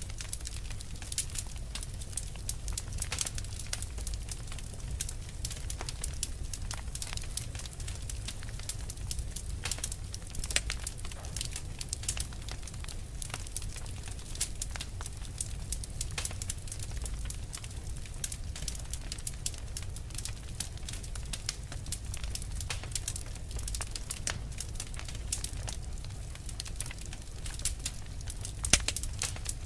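Wood fire burning, with many irregular sharp crackles and pops over a steady low rumble, and one louder pop near the end.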